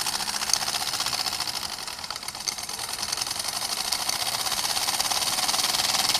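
Model steam traction engine running fast with the throttle opened, a rapid, even mechanical beat. It eases a little about two seconds in, then picks up and grows louder toward the end.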